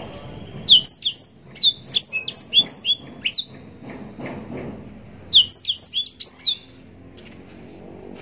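Blackthroat (black-throated canary) singing two quick runs of sharp, falling whistled notes. The first run lasts about three seconds, and the second starts about five seconds in.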